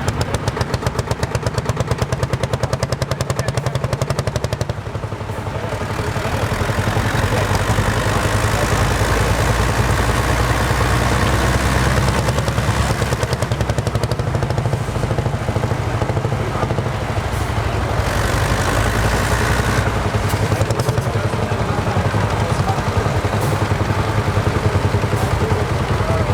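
Vintage tractor engines, Lanz Bulldog single-cylinder hot-bulb engines and a ZT 403-D diesel, running hard under load in a tug-of-war pull. The sound is a loud, continuous, fast, even beat with a deep low end.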